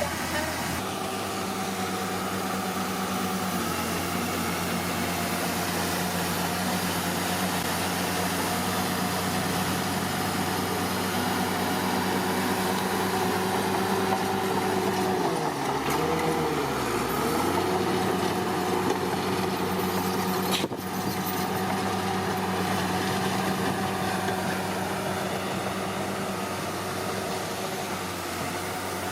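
Komatsu D41P bulldozer's diesel engine running steadily, its revs dipping briefly about halfway through and then climbing back.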